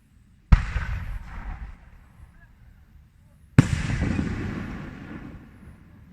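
Two fireworks going off at close range, about three seconds apart: each a sharp, very loud bang followed by a rumbling echo that fades over a second or two, the second tail longer than the first.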